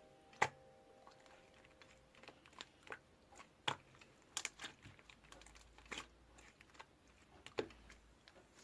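Faint, irregular clicks and small pops of slime being squeezed and poked by hand.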